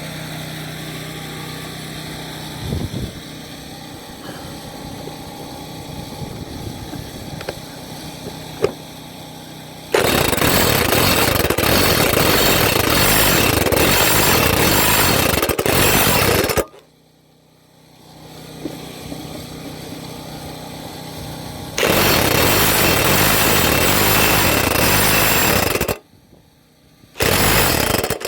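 Corded electric impact wrench hammering at a stubborn 24 mm mower blade bolt, in three bursts: a long one about ten seconds in, another after a pause, and a short one near the end. Before the first burst, a low steady hum with a few small knocks.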